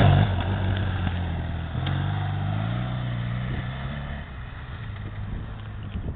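BMW HP2's boxer-twin engine running, its note holding fairly steady with a slight rise about two seconds in, then growing quieter from about four seconds in.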